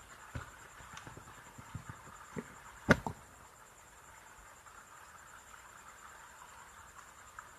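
A few light knocks and clicks from handling a clothes iron being tested after repair, with one sharp click about three seconds in.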